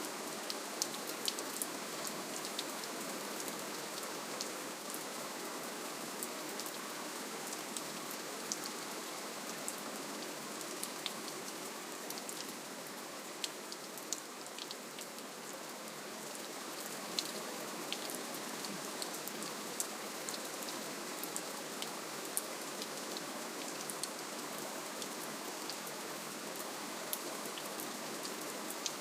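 Steady, gentle rainfall: an even hiss of rain with scattered single drops ticking sharply through it.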